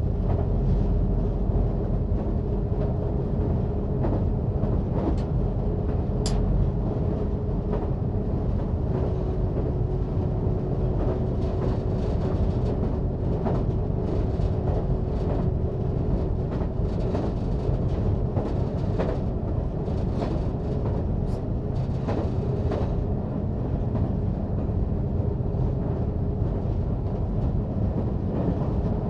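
Diesel multiple unit train running at speed, heard from the driver's cab: a steady rumble with a held mid-pitched drone and scattered sharp clicks.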